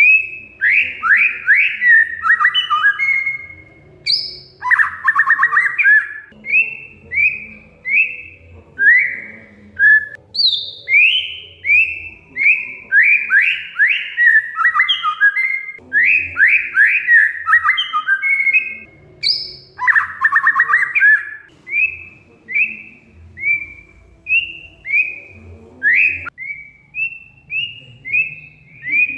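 Oriental magpie-robin (kacer) singing: a run of short whistled notes that slide downward, about one a second, broken by dense harsh chattering bursts near the start, about five seconds in and about twenty seconds in.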